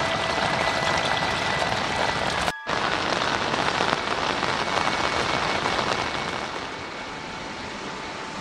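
Heavy, steady monsoon rain falling on foliage and wet ground. It cuts out for a split second about two and a half seconds in, then resumes, and turns a little quieter near the end.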